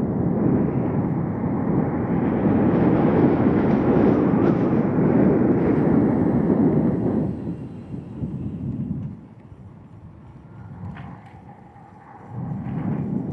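Wind buffeting the microphone while riding, a loud rumbling rush. It dies down about eight seconds in and picks up again near the end.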